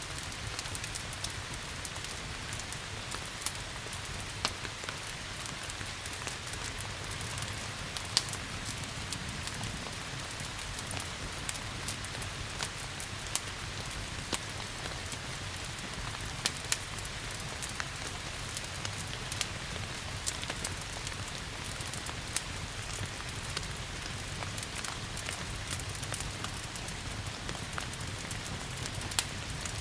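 Steady rain hiss mixed with a wood fire crackling, sharp pops scattered irregularly throughout, over a low steady rumble.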